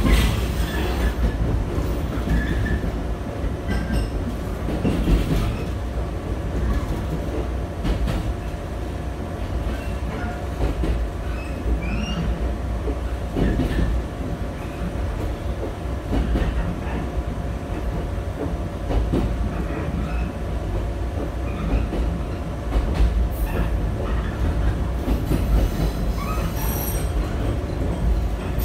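Running sound inside a JR West 123 series electric railcar: a steady low rumble of wheels on rail with a constant hum, broken by occasional knocks. Thin, high wheel squeals come in briefly near the end.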